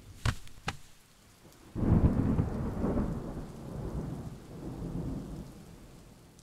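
Two sharp cracks, then a long low rumble that starts about two seconds in and slowly dies away.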